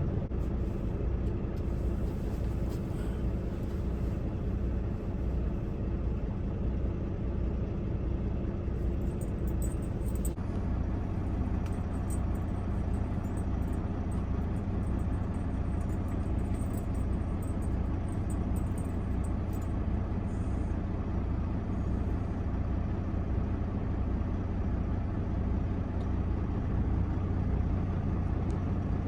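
Semi truck's diesel engine idling steadily with a low, even hum; the hum's tone shifts slightly about ten seconds in.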